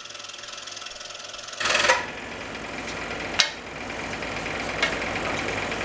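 Scroll saw running with its fast, even reciprocating buzz, getting louder about a second and a half in, with a few sharp clicks.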